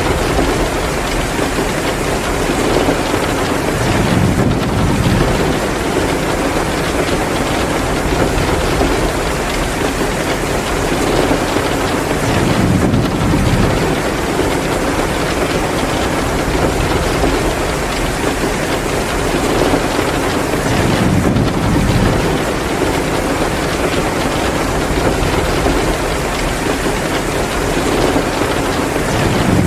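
Heavy rain pouring steadily, a dense even hiss, with a low rumble that swells and fades about every eight seconds.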